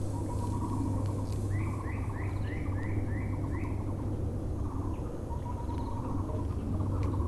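Birds calling: repeated low notes of a Muller's barbet run throughout. About a second and a half in, another bird gives a quick run of about eight rising chirps, roughly three a second. A steady low hum lies underneath.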